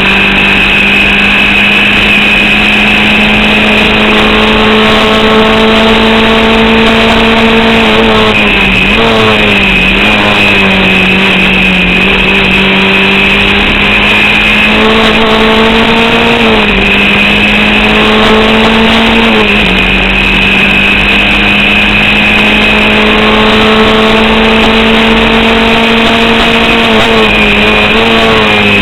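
Onboard sound of a Formula Vauxhall 8v single-seater's engine, which is misfiring, running at a fairly steady, held-down pitch. The revs creep slowly up and then fall sharply several times at gear changes or braking. A steady high whine runs underneath throughout.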